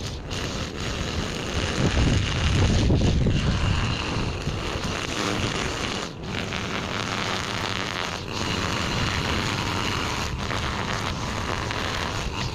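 Small gasoline engine of a handheld yard power tool running steadily while clearing weeds, swelling louder about two seconds in and easing back a couple of seconds later.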